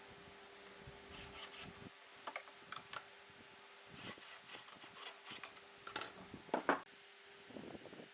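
Faint hand work on wood: scattered light taps, clicks and scrapes, with the loudest cluster of knocks about six and a half seconds in. A faint steady hum runs underneath, stops about two seconds in and returns near the end.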